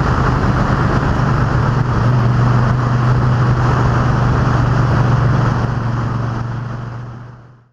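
Race car and truck engines running on an oval track, a steady drone that fades out near the end.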